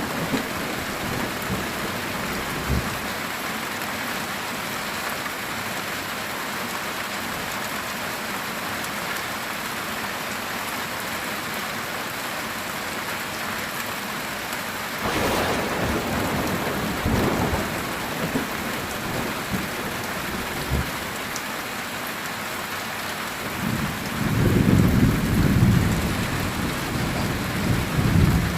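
Steady heavy rain drumming on a metal tin roof, with thunder: a sharp crack about halfway through and a long low rumble near the end.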